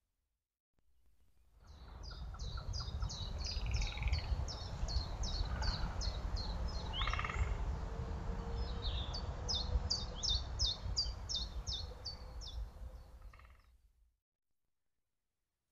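Wild birds singing: a rapid run of short, sharp, high notes, about three a second, with a few other calls mixed in, over a steady low rumble. It starts about a second and a half in and cuts off shortly before the end.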